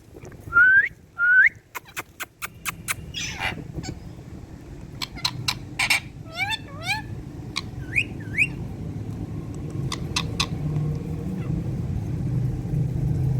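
Indian ringneck parakeet whistling and calling: two rising whistles near the start, then a run of short upward-gliding chirps midway, among scattered sharp clicks. A steady low hum sits underneath from about two seconds in.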